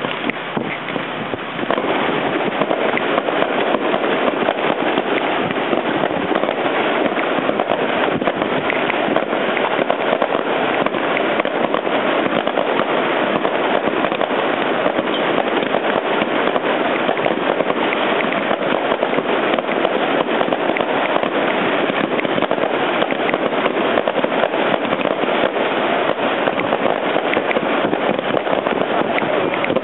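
Fireworks crackling densely and without a break, a barrage that starts up about two seconds in.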